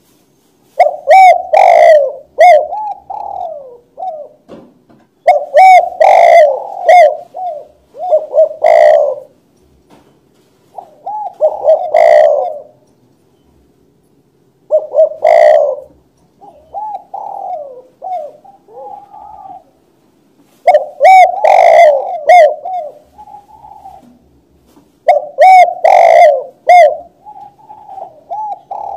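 Spotted dove (tekukur) cooing: about seven repeated phrases of several rolling coos, a few seconds apart. It is very loud, with distortion on the loudest notes.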